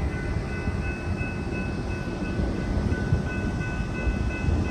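A long freight train rolling past a grade crossing: a steady rumble of railcars with thin, steady high-pitched tones held over it.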